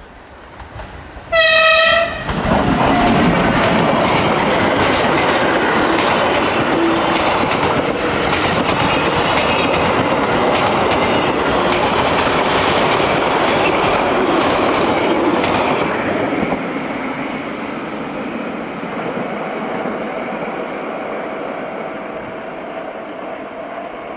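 Rhaetian Railway Ge 4/4 III electric locomotive sounds one short horn blast as it approaches. The locomotive and its mixed train of passenger coaches and freight wagons then pass close by, the wheels clacking rapidly. The noise fades away over the last several seconds as the train recedes.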